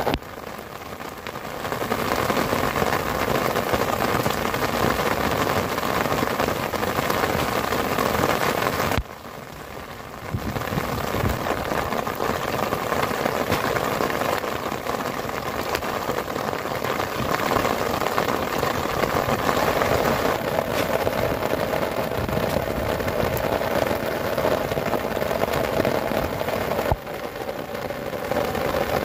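Heavy rain falling on a tent, heard from inside as a dense, steady hiss. The level drops abruptly about nine seconds in and comes back a second and a half later.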